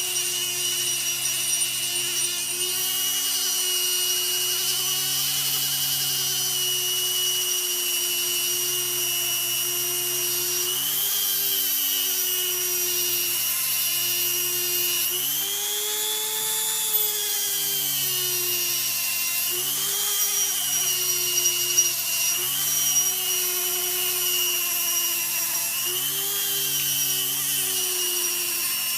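Small electric power tool motor running with a steady whine, its pitch dipping and coming back up several times.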